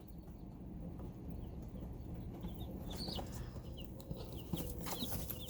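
Day-old Cornish Cross chicks peeping: short, high, falling chirps that grow busier from about halfway through, with a few light knocks.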